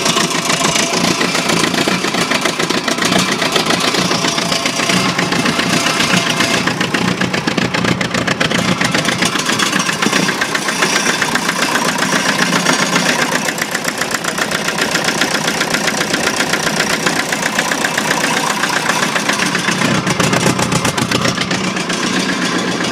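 Engine running loud and steady with a fast, even firing beat, just after a cold start.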